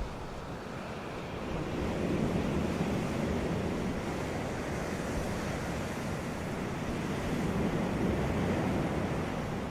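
Ocean waves breaking and washing onto a beach: a steady surf hiss that swells as a wave comes in about two seconds in, and again near the end.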